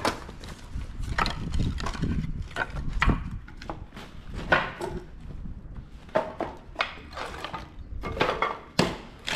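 Split firewood pieces knocking and clattering against each other as they are handled and packed upright into a bag: a dozen or so irregular wooden knocks.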